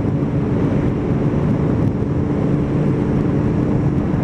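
Motorcycle engine running at a steady cruising speed while riding, a constant drone with a steady hum and road rumble underneath.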